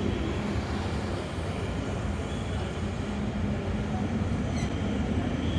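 Double-deck regional train rolling past on the track: a steady low rumble of wheels on rails.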